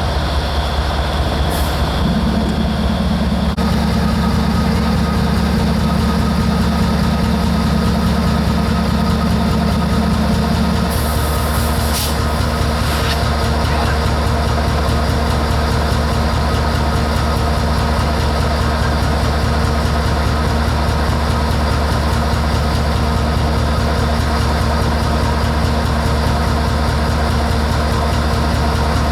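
Diesel locomotive engine idling, a steady low rhythmic throb. A steady hum joins about two seconds in and steps slightly higher in pitch around eleven seconds.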